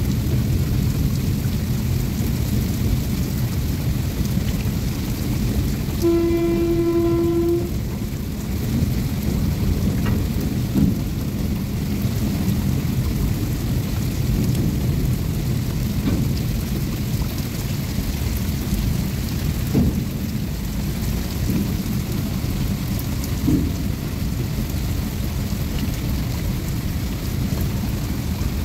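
Open-top freight wagons of a goods train rolling past with a steady low rumble, under the hiss of heavy rain, with a few sharp clanks from the wheels. About six seconds in, a train horn sounds once for about a second and a half.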